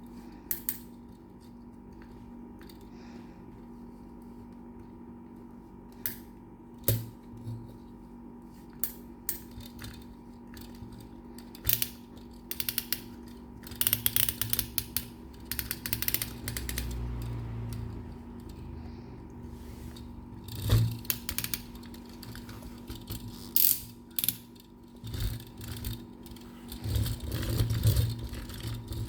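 Miniature diecast toy construction trucks being handled, with irregular clicks and clatters and a ratcheting of their moving parts. A faint steady hum runs underneath.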